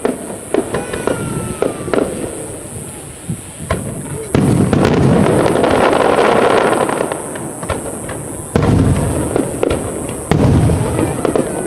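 Fireworks display: aerial shells bursting with booms and pops. A dense, loud stretch of crackling bursts starts about four seconds in and lasts about three seconds, and two more loud volleys follow near the end.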